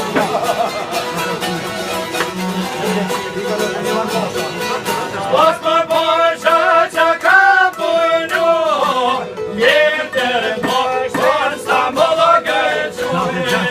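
Albanian folk song: plucked string instruments playing a quick rhythmic accompaniment, joined about five seconds in by a male voice singing the melody in long, ornamented phrases.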